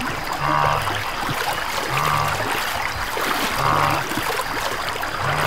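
Water splashing and churning as a herd of wildebeest plunges into a river, over background music whose low two-note figure repeats about every second and a half.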